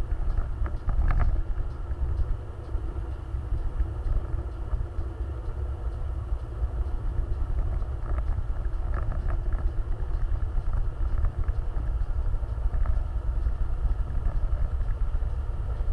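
Off-road vehicle running with a steady low rumble and a few faint rattles, about a second in and again around eight seconds in.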